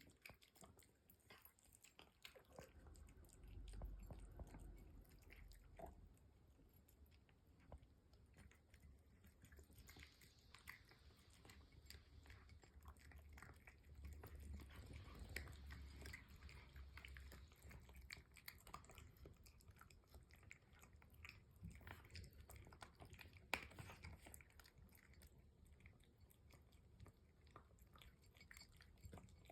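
Cat eating wet food: faint, continuous chewing with many small wet clicks, and one sharper click a little after halfway through the second half.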